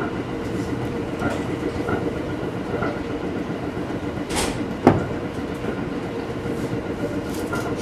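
Aoi Mori Railway electric train running at speed, heard from the cab: a steady rumble of wheels and motors with light, regular rail clicks. About four and a half seconds in there is a brief hiss, followed by a single sharp knock.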